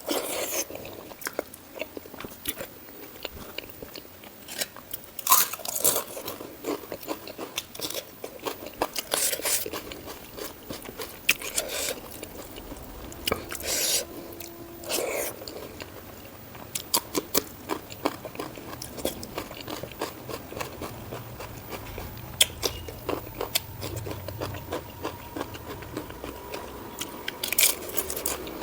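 A person chewing and biting food close to the microphone: many small mouth clicks, with a few louder crunchy bites spread through.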